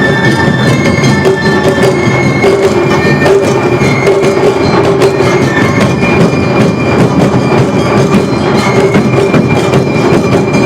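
Awa odori festival band playing: high held flute notes step upward over a dense, steady rhythm of clanging gongs and drums.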